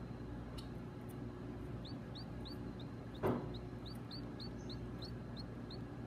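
Small cage birds at the nest chirping: a run of short, high, rising peeps, about three a second, starting about two seconds in. One louder, harsher sound comes a little after three seconds, over a steady low hum.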